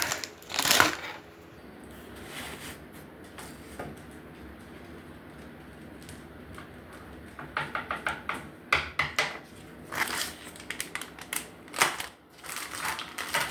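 Metal grill parts and hardware being handled during assembly: a sharp knock about a second in, then after a quiet stretch a run of quick clicks and rattles.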